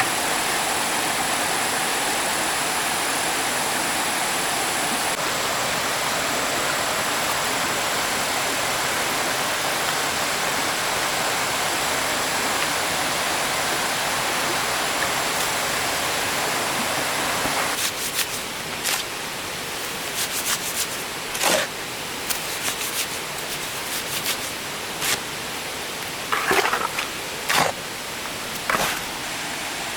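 Steady rushing water. About two-thirds of the way through it drops to a quieter background, and a series of sharp knocks follows.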